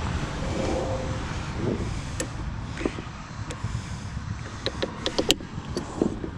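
Low rumbling handling noise, then a quick run of sharp metallic clicks and clinks about two-thirds of the way through as strut hardware is handled.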